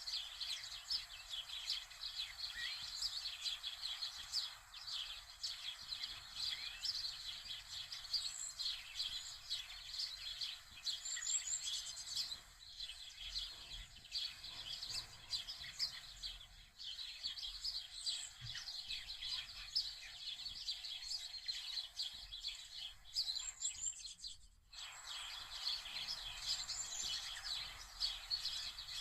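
Many small birds chirping and calling in a continuous dense chorus, with a brief break near the end.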